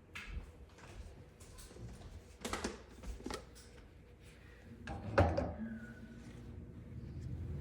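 Parts of a two-tier dish drying rack knocking and clicking as they are handled and fitted together: a handful of separate knocks, the loudest about five seconds in, followed by a brief ring.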